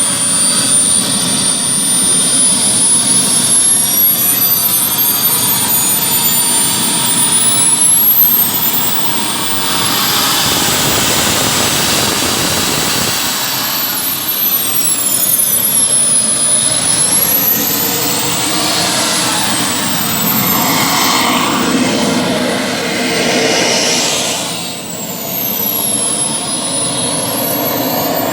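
The twin small jet turbines of a homemade model Tornado jet running with a steady roar and a high whine. The whine holds level at first, then rises and swings up and down in pitch several times as the throttle or the aircraft's distance changes.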